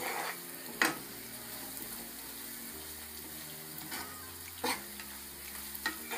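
Chopped onions, chillies and curry leaves sizzling in hot oil in a frying pan as a steel spoon stirs them, with a few sharp clicks of the spoon against the pan.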